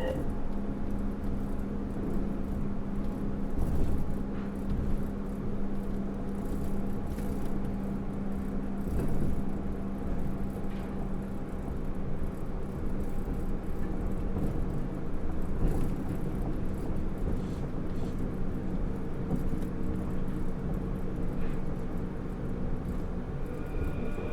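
Cabin running sound of a Kobe New Transit 3000-series rubber-tyred automated guideway train travelling between stations: a continuous rumble of the tyres on the guideway with a steady low hum.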